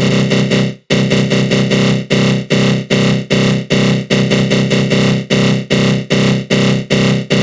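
Synthesized attack-growl sound effect: a harsh, buzzy growl from the GMS synth with a flanger on it. One longer burst is followed by rapid pulsing bursts, about two to three a second.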